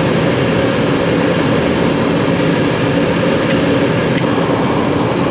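The Lincoln Town Car's climate-control blower fan running steadily: a loud, even rush of air with a low hum underneath, though air is not coming out of the vent being checked.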